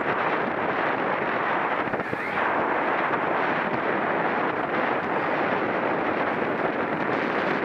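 Steady wind noise rushing and buffeting over the microphone of a camera riding along at bicycle racing speed, with a brief dip about two seconds in.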